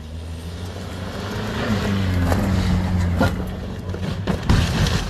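A road vehicle's engine running steadily with road noise, its pitch dipping slightly about two seconds in, and a few sharp knocks partway through and near the end.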